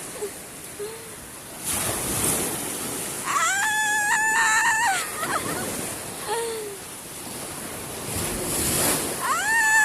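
Sea waves washing in on the shore with wind buffeting the microphone. About halfway through comes a high-pitched, drawn-out cry held on one pitch for over a second, and a similar cry starts near the end.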